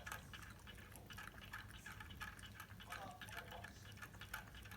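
Shiba Inu puppy lapping water: a faint, quick run of small wet clicks, several a second.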